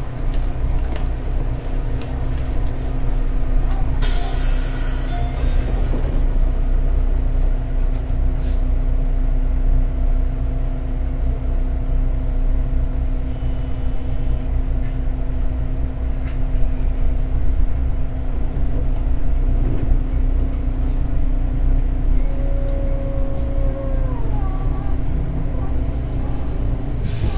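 JR 211 series electric train running, heard from inside the car: a steady rumble of wheels on rail with a constant hum. About four seconds in comes a two-second hiss of air, and near the end a short squeal that falls in pitch.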